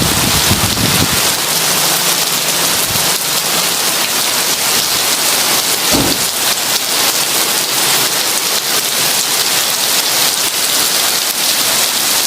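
Heavy rain pouring steadily in an even, dense hiss. Low thunder rumbles in the first second, and a short thunder clap comes about six seconds in.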